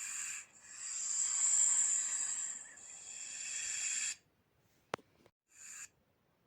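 Snake hissing in breathy bursts: a short hiss, then a long one lasting about three and a half seconds, a sharp click, and another short hiss.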